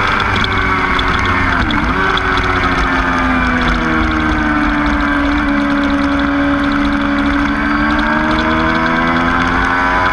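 Motorcycle engine running hard at track speed, with wind noise over it. Its pitch dips briefly about two seconds in, sinks slowly to its lowest around the middle, then climbs again near the end as the bike accelerates.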